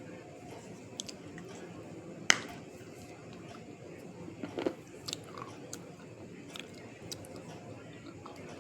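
A person biting and chewing hard, brittle white pieces close to the microphone. A sharp snap comes about two seconds in, a cluster of crunches a little after four seconds, and scattered smaller crunching clicks fall between them.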